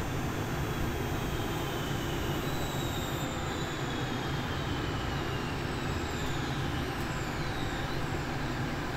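Metro train running, heard from inside the carriage: a steady rumble of wheels on the rails with faint high whines that slowly fall in pitch.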